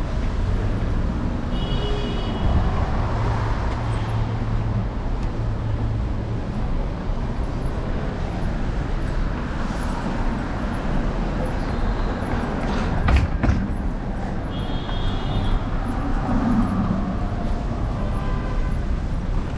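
City street traffic noise with a steady low road-and-wind rumble, heard from a moving electric scooter. Two brief high squeaks and a single sharp knock about two-thirds of the way through.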